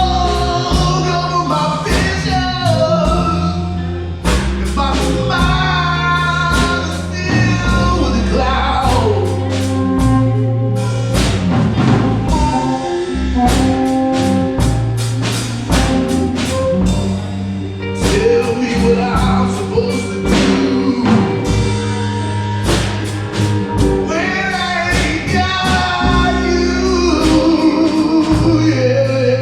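Live blues band playing a slow blues instrumental break: a lead line with bending, wavering notes over a walking bass and steady drums.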